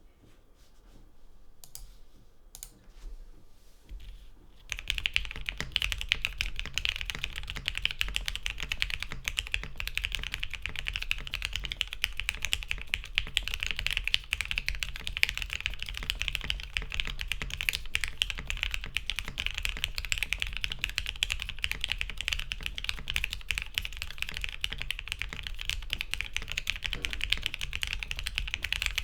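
Typing on a Geonworks Frog TKL custom mechanical keyboard with lubed, filmed OP Black linear switches in a full aluminum plate and no dampening foam. A few scattered key presses at first, then fast continuous typing from about five seconds in.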